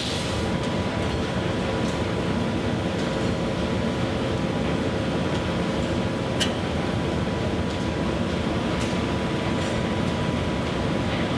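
Steady rumbling noise with a faint hum running through it, and one short click about six seconds in.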